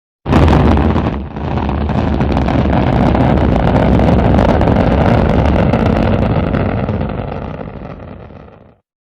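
Rocket launch roar: a loud, deep, crackling rumble that cuts in suddenly, holds steady, then fades away over the last couple of seconds.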